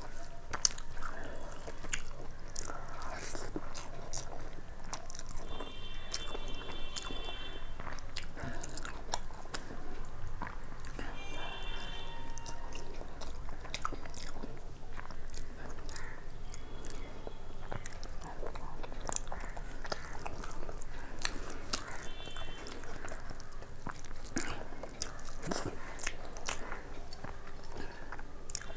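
Close-up chewing and mouth sounds of a person eating fried rice and chicken curry by hand, with many small wet clicks.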